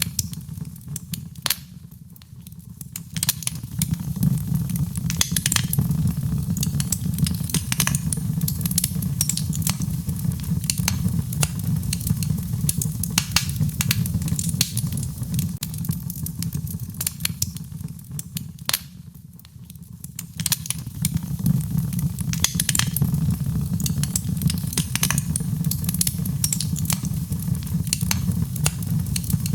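Wood fire in a fireplace crackling with frequent sharp pops and snaps over a steady low rush, mixed with rain. The whole sound briefly drops away twice, about two seconds in and again about two-thirds of the way through.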